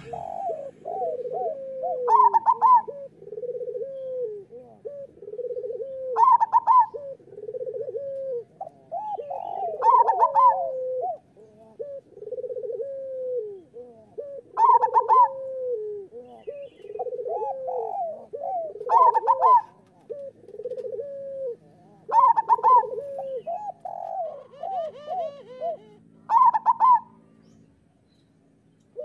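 Zebra doves (perkutut) cooing in overlapping rolling phrases: a continuous run of low coos, broken every few seconds by a louder, higher note. The cooing stops shortly before the end.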